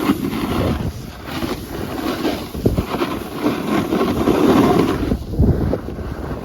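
Wind buffeting the microphone: a rough rumble that surges and drops unevenly.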